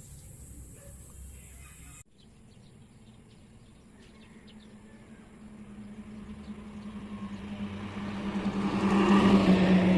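A motor vehicle drawing near, its engine hum and road noise swelling over several seconds to a peak near the end. Faint bird chirps come before it.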